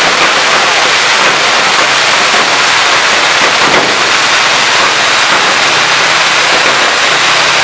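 A row of ground firework fountains spraying sparks, making a loud, steady hiss without separate bangs.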